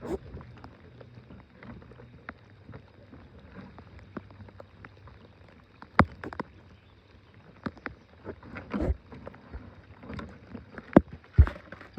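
Irregular sharp ticks of raindrops landing on the small boat and gear, with a few louder knocks against the boat about halfway through and near the end.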